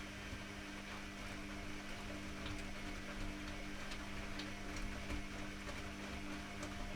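Privileg Classic 30612 washing machine running mid-cycle: a steady motor hum with a low rumble and scattered faint ticks.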